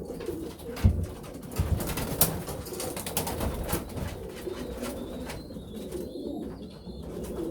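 Racing pigeons cooing in a small loft, with a few sharp knocks in the first two or three seconds.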